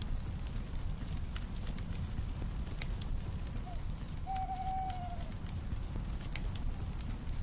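Campfire crackling with scattered sharp pops over a low steady rumble, a cricket trilling steadily on one high note, and a single owl hoot about four seconds in, one note held for about a second and dropping at the end.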